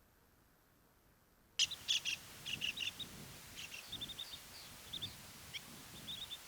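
Near silence, then about a second and a half in, birds start calling suddenly with many short, high chirps, often in quick runs of three or four notes.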